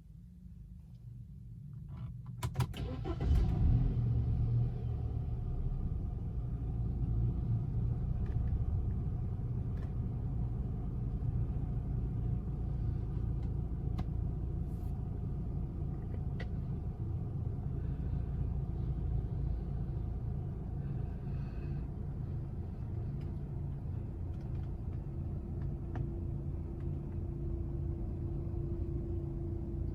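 BMW E90 3 Series engine starting: a short crank with clicks about two and a half seconds in, a flare of revs as it catches, then a steady idle.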